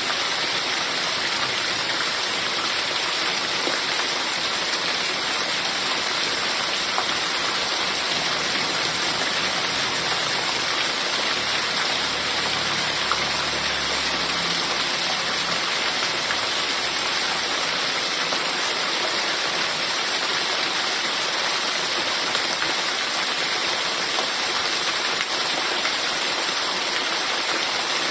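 Heavy rain falling steadily in a dense, even hiss. A faint low rumble runs under it for a few seconds about halfway through.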